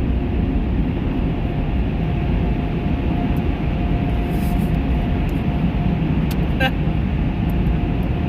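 Car wash air dryers blowing steadily over the truck, a loud, even rush of air with a low rumble and a thin steady whine, heard from inside the cab. There is a brief click about two-thirds of the way through.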